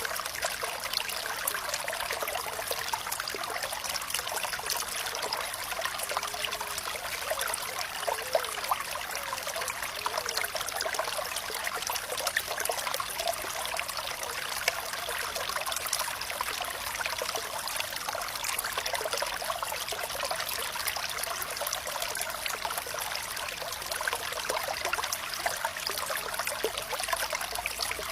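Small stream of water trickling and splashing steadily, with many small bright splashes and little deep rumble.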